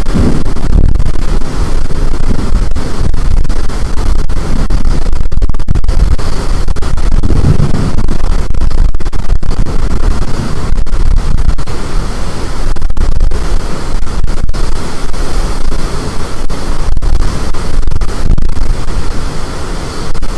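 Loud storm wind buffeting the microphone and overloading it, a continuous low rushing noise that swells in gusts at the start and again about seven seconds in.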